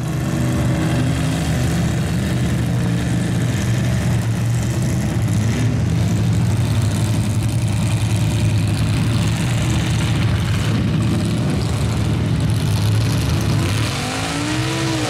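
A large truck engine running steadily at a fairly constant speed, its low drone level throughout.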